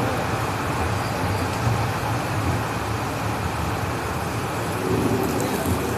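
Steady low rumble of a running vehicle, even throughout with no sharp knocks or horn.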